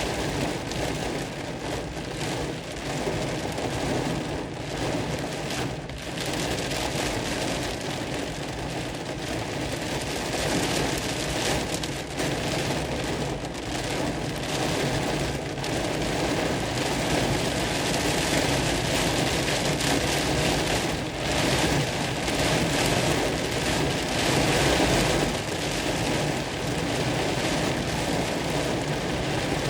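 Heavy rain falling hard: a dense, steady noise of drops that swells a little in loudness now and then.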